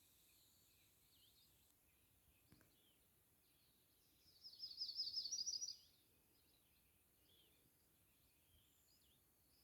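Birds chirping faintly, with one loud, rapid bird trill of quickly repeated high notes about four seconds in, lasting about a second and a half.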